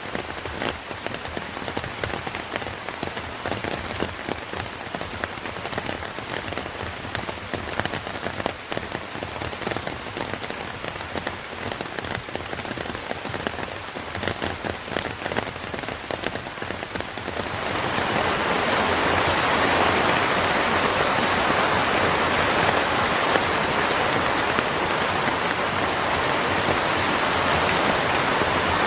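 Rain: for the first two-thirds, a patter of many separate drops hitting a surface. Then, quite suddenly, the sound changes to a louder, steady, even rush of rain.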